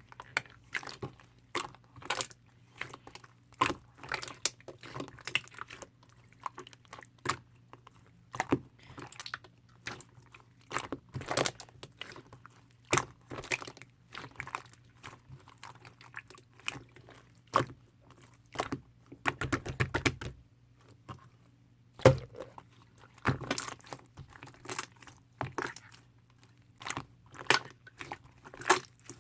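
Mint-chocolate pearl slime being squished and stretched by hand, giving irregular sticky clicks, pops and crackles.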